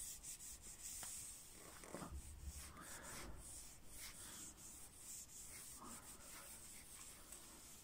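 Faint, irregular rubbing on the bare steel face of an anvil as engine oil is spread over it to keep rust off.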